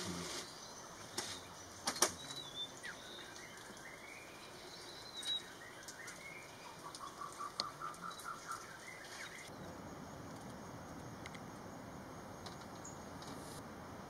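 Quiet forest ambience with small birds: a few sharp wing flutters in the first couple of seconds, scattered short whistled calls, and near the middle a quick run of about eight repeated call notes. After that only a faint steady background hiss remains.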